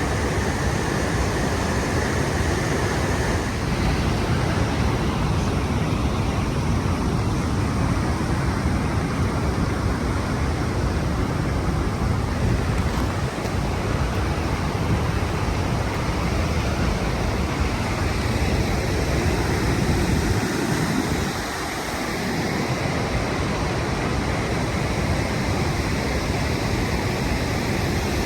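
Steady rushing of a large waterfall, with wind buffeting the microphone.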